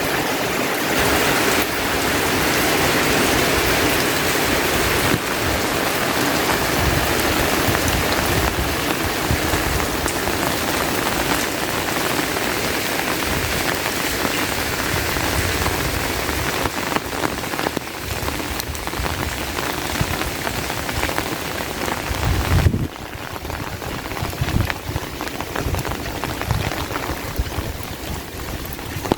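Steady rain falling, an even wash of drops. About three-quarters of the way through it turns suddenly softer, and a few low knocks follow.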